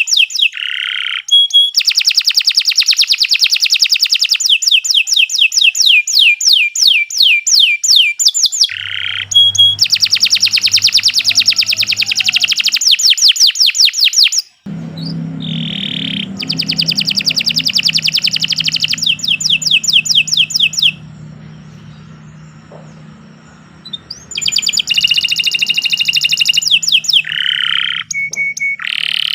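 Domestic canary singing long rolling trills of rapid repeated notes, broken by short pauses, with a pause of about three seconds after the middle. A low steady hum runs underneath in the second half.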